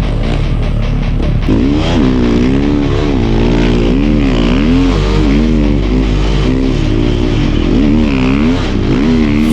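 Snow bike engine revving up and down again and again as the rider works the throttle through tight trees in snow.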